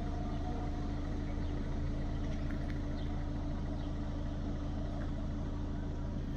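A vehicle running, a steady low rumble with a constant hum that does not change.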